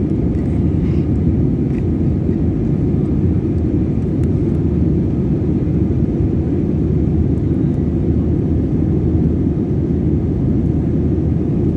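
Steady cabin noise inside an Airbus A320 in flight: a low, even roar of engines and airflow with no changes.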